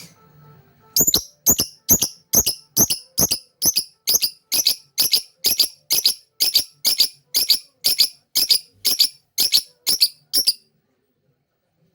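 Lovebird giving a long, even run of sharp, high chirps, about two and a half a second for some nine seconds, then stopping.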